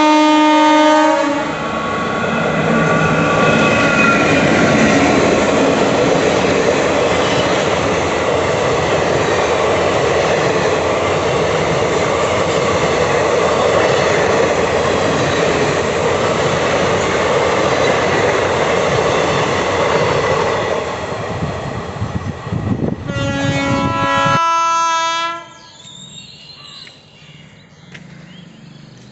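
Electric-hauled Indian Railways express train passing close by at speed. The locomotive horn sounds at the start and fades, then the long rake of coaches rumbles and clatters past for about twenty seconds. Another horn blast follows, and then the sound drops to a quiet background.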